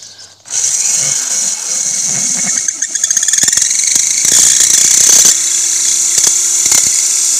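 Electric drill with a diamond drill bit grinding through a wetted clay pot: a loud, high-pitched grinding squeal that starts about half a second in, with the drill's steady motor hum joining about five seconds in.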